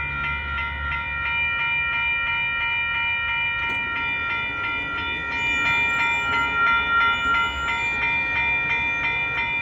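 Railroad crossing bell ringing with steady, regular strikes over the low rumble of a passing intermodal freight train.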